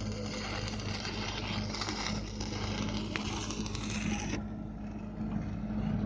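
Welding arc crackling on a pipe, over the steady electrical hum of the welding machine; the crackle cuts off sharply about four seconds in and the hum carries on.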